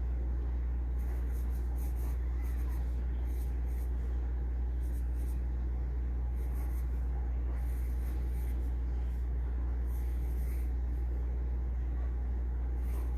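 Pencil scratching on paper in short strokes that come and go in little clusters, over a steady low hum.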